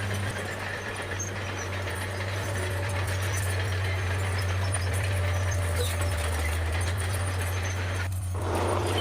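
Bulldozer's diesel engine running steadily under work, a constant low drone with a rattling, noisy clatter over it.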